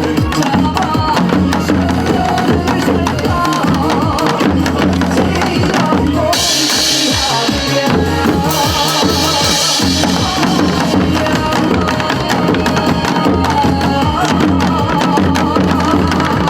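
Janggu drums played together in rhythm over recorded trot backing music with a steady bass beat. A bright hissing wash comes in twice in the middle.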